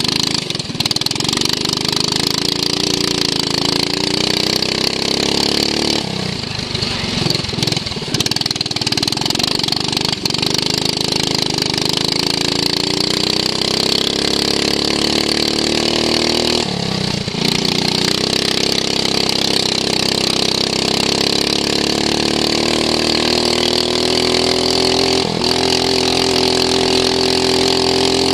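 Racing lawn mower's engine heard onboard at racing speed, its pitch climbing, dropping back sharply about six seconds and again about seventeen seconds in, then climbing steadily through the rest, over a steady hiss.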